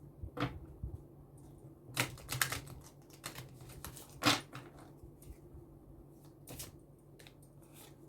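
Divination cards being handled and laid down on a table: a few sharp clicks and taps, with a quick cluster about two seconds in and the loudest tap about four seconds in.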